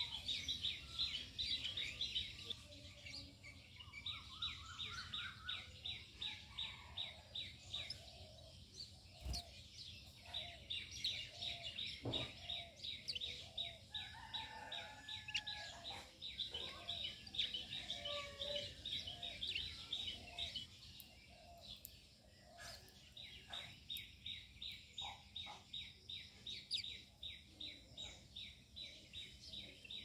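Birds chirping outdoors: a fast, even series of high chirps, several a second, that pauses briefly now and then, with softer, lower calls mixed in over a steady low rumble.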